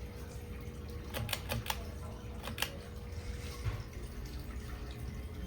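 Hampton Bay Glendale ceiling fan running with a steady low hum and a faint thin tone that stops a little past halfway; the owner puts the trouble down to a bad capacitor. A few sharp clicks come between one and three seconds in.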